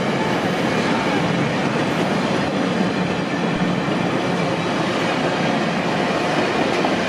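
Passenger cars of a train rolling past at speed: steady noise of steel wheels running on the rails.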